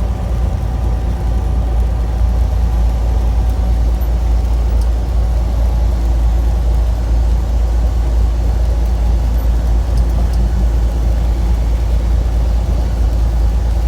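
Steady low rumble of a truck engine idling.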